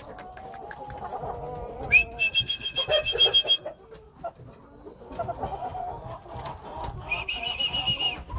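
Shamo chickens vocalising: low, wavering clucking calls, with a high, rapidly pulsed chirping twice, about two seconds in and again near the end.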